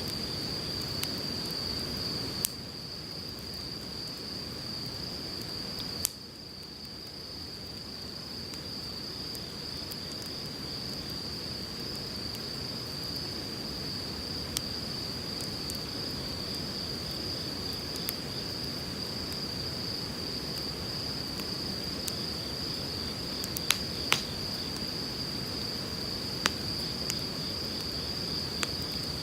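Wood fire crackling with scattered sharp pops, over the steady rushing of a river. A steady high-pitched tone runs underneath.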